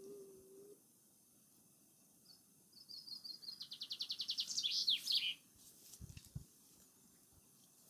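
A songbird singing one phrase a couple of seconds in: a few spaced high notes that speed into a rapid trill and end in a falling flourish. Two soft low thumps follow near the end.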